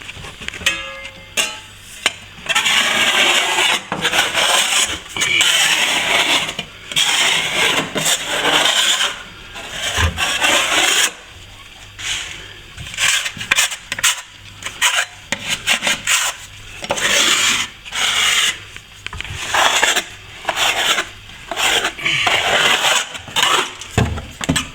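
A blade scraping back freshly applied, partly set plaster on a wall in repeated rasping strokes, each about a second long, with short pauses between them.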